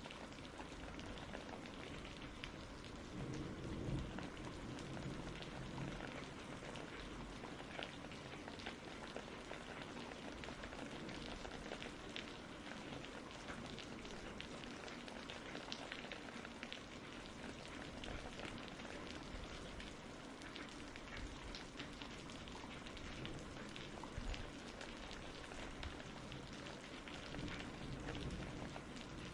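Steady rain, an even hiss full of small drop ticks, with a brief low rumble about four seconds in.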